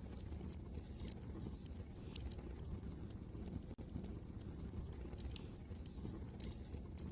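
Wood fire crackling, with irregular sharp pops and snaps over a steady low rumble of wind.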